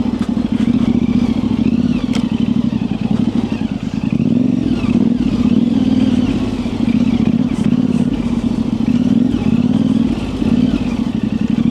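Yamaha Ténéré 700's parallel-twin engine, breathing through an aftermarket high-mount exhaust, running at low revs on a light, varying throttle. It eases off briefly about four seconds in and again near the end.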